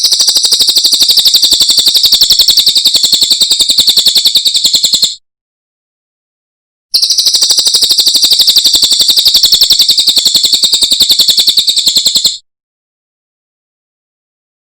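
Cililin songbird singing a loud, very rapid trill of high notes repeated many times a second. It comes in two bursts of about five seconds that start and stop abruptly, with a silent gap of about two seconds between them and silence again near the end.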